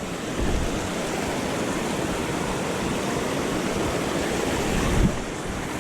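Creek water rushing steadily over rocks, with a low thump about half a second in and another near the end.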